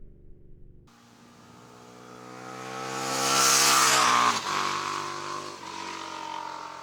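2019 KTM 1290 Super Duke R V-twin passing by at about 80 mph: from about a second in it grows louder as it approaches, peaks, drops in pitch suddenly as it passes, then fades away.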